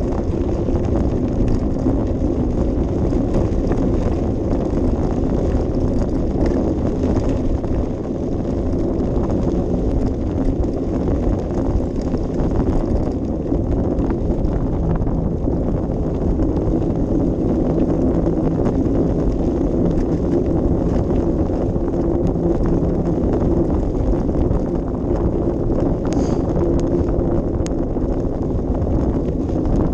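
Steady low rumble of wind on an action camera's microphone, mixed with the running and light rattling of a bicycle ride along a path.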